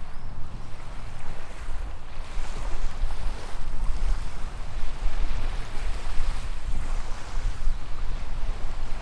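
Small waves washing onto a sandy beach, the wash swelling and fading every few seconds, with a low rumble of wind on the microphone.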